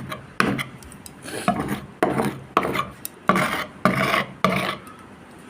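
Repeated hand strokes rubbing on a boat hull, each a short scratchy rasp, coming about two a second.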